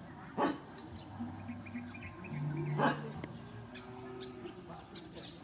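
Birds chirping in the background, with a steady low hum and two short loud sounds about half a second and three seconds in.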